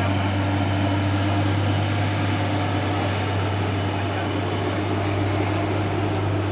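Heavy diesel truck engine running steadily, a constant low hum with a fainter higher tone that fades out about halfway through.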